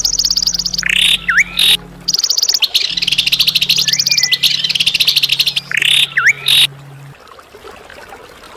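A songbird's rapid, high-pitched buzzing trills in long bursts, broken by sharp rising notes, over a steady low hum. The song stops about seven seconds in.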